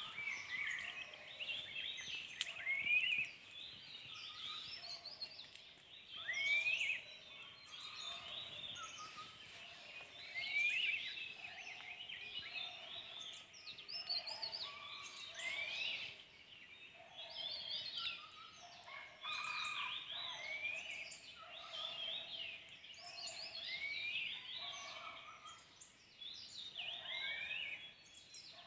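A chorus of several wild birds singing at once: many quick chirps and rising and falling whistles overlap. A lower note repeats every second or two underneath.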